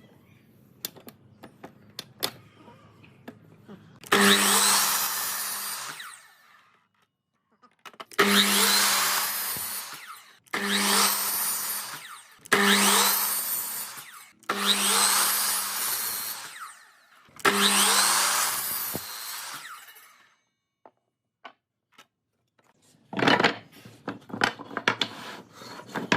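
An electric power tool working wood in six passes of about two seconds each. Each pass starts loud and fades, with a steady motor hum beneath the cutting noise. Light knocks and clatter follow near the end.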